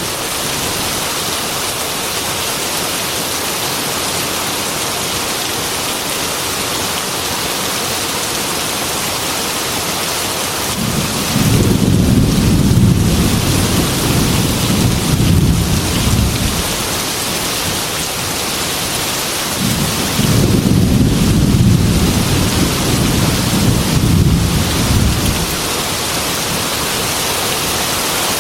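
Heavy rain falling on a glass window in a steady hiss, with two long low rumbles of thunder, one near the middle and another a few seconds later, each lasting about five seconds.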